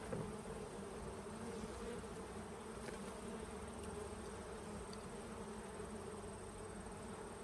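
Honey bees buzzing around an opened hive: a steady, even hum, a very calm buzz, the sign of a settled, unstressed colony.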